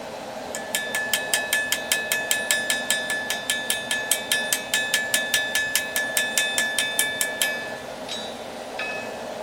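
Hammer blows on an anvil, about five a second in a steady run of some seven seconds, each strike ringing: hand-forging a hot railroad spike. A couple of lighter taps follow near the end, over the steady rush of a propane forge burner.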